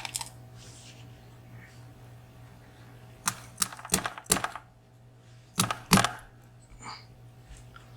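Sharp little metallic clicks and taps as pins are worked out of a VSR dimple lock's cylinder during disassembly. A quick cluster of clicks comes about three to four and a half seconds in, then two more near six seconds.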